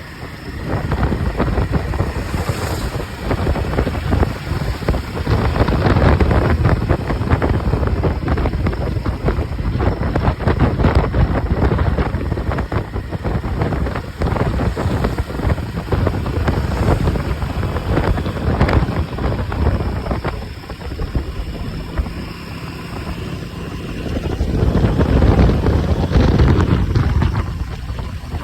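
Royal Enfield Himalayan 450's single-cylinder engine running while the motorcycle is ridden, with wind noise on the microphone. It grows louder twice, a few seconds in and again near the end.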